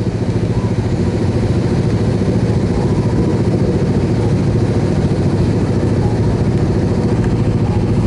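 Suzuki Yes motorcycle's single-cylinder engine running steadily at low revs, with no rise or fall in pitch.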